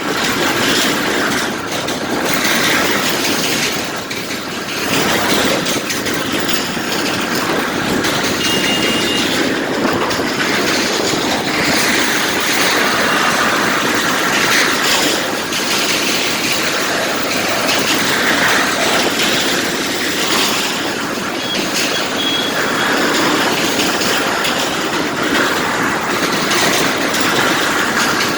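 Steady loud noise of a vehicle rolling across the steel deck plates of a floating pontoon bridge (pipa pul), the strange sound the bridge makes under traffic.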